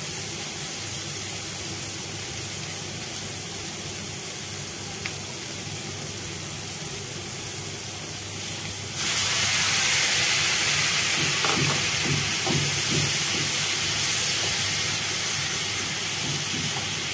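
Onions and tomatoes sizzling in oil in a nonstick frying pan. About nine seconds in, liquid goes into the hot pan and the sizzle jumps to a louder, steamy hiss that eases off slowly.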